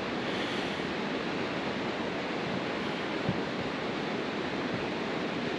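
Steady background rushing noise with one faint tap about three seconds in.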